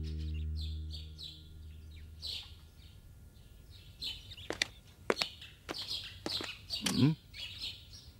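Birds chirping and tweeting as a background sound effect, in short scattered calls that come thicker and louder in the second half. Music fades out over the first second or so.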